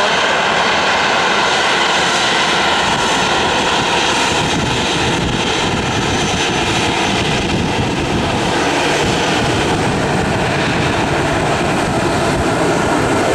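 Boeing 737-800's CFM56-7B turbofan engines running at taxi power. It is a steady jet rush with a few constant whining tones over it.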